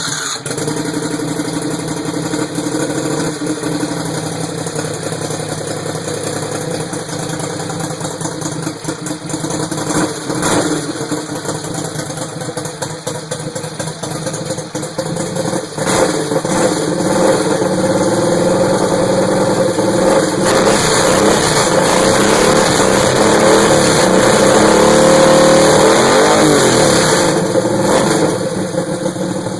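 Modified Briggs & Stratton 35 cubic inch Vanguard mower engine running. It gets louder and revs higher through the second half, then drops back near the end.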